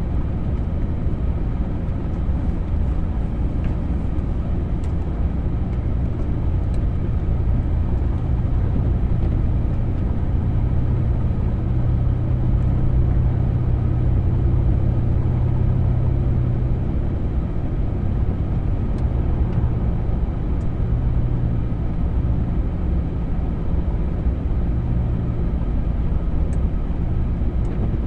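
A vehicle driving through deep snow: a steady low engine and road drone that swells slightly in the middle, with a few faint ticks.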